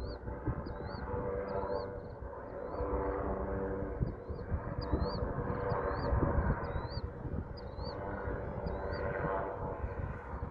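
Gusty wind buffeting the microphone over a steady engine drone, with a short high chirp repeating about twice a second.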